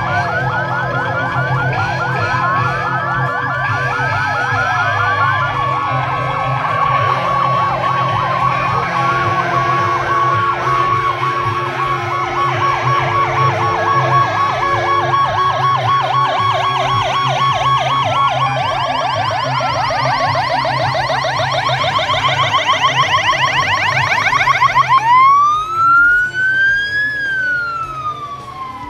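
Several fire engine sirens sounding together: overlapping wails and fast yelps over a low steady hum. About 25 seconds in, one siren sweeps up into a loud, slow rising-and-falling wail.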